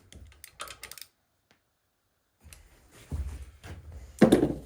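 Light clicking and clattering of hand tools and transmission parts being handled on a workbench, with a louder thump near the end.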